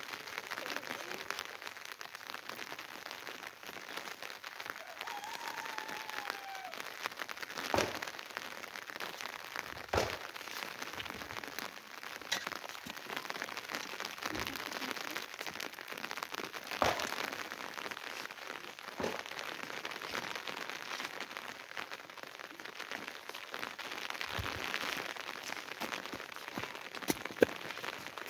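Steady rain pattering on a hard surface, with a few sharper knocks standing out, the loudest near the end.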